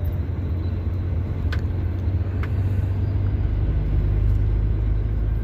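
Heavy truck's diesel engine running at low speed, heard from inside the cab as a steady low rumble that deepens about three seconds in, with two faint clicks.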